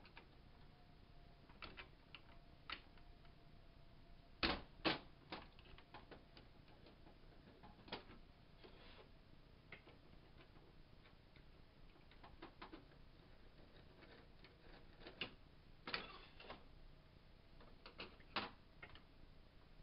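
Scattered clicks and knocks of small parts and tools being handled as a Crosman PowerMaster 760 BB gun is taken apart, the loudest two knocks coming close together about four and a half seconds in, over a faint steady hum.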